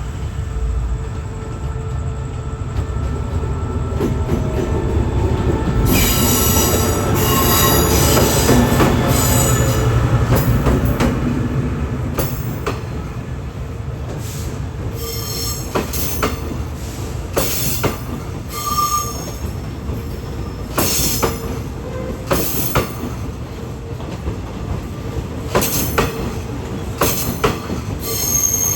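Train rolling past close by: a steady low rumble that swells about six seconds in, joined by high-pitched wheel squeal, then a run of sharp irregular clacks and short squeals from the wheels on the track.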